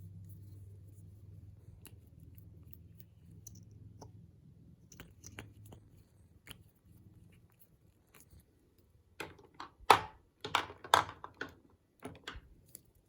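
Crisp clicking and crunching from cosmetics being handled, a few scattered clicks at first, then a quick run of loud crunches near the end.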